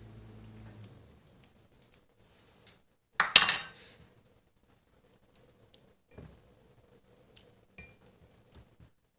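Kitchen dishes and utensils clattering: one loud clink-and-rattle with a metallic ring about three seconds in, followed by a few light taps and clicks.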